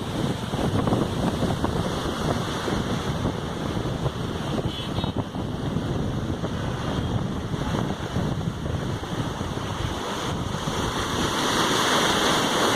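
Sea waves washing in, with wind rumbling on the microphone. The hiss grows brighter and a little louder near the end.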